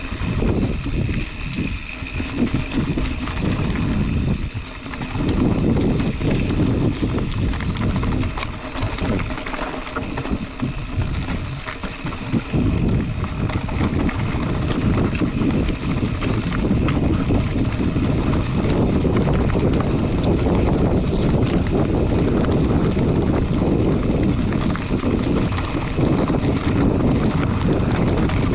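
Wind buffeting an action camera's microphone during a mountain bike ride on a dirt trail, mixed with the rumble of tyres and frame over the ground. The noise is a heavy, uneven low rumble that grows stronger about five seconds in and stays strong.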